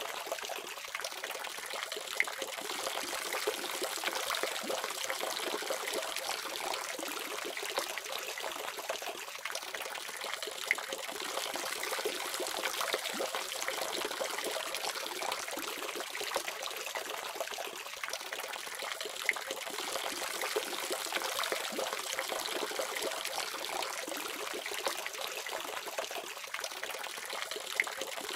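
Water running steadily from a faucet, a continuous splashing trickle.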